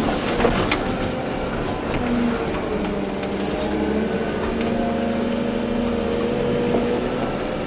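Volvo EC240B excavator's diesel engine and hydraulics running steadily under load, with a few sharp knocks near the start.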